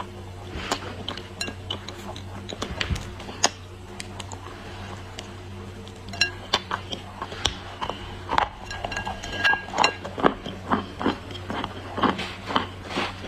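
Dry clay being crushed and crumbled: a run of crisp cracks, crunches and light clinks. They come sparsely at first and grow louder and denser about halfway through.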